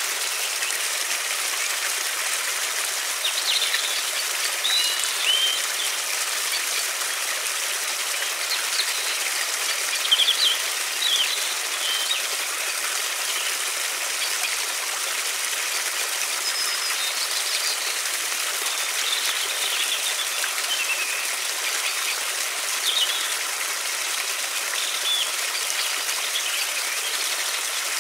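River water flowing steadily, with small birds chirping now and then above it.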